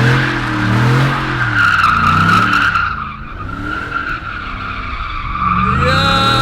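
Pickup truck doing donuts: the engine revs rise and fall over and over while the rear tires squeal without a break, easing off a little around the middle and getting louder again near the end.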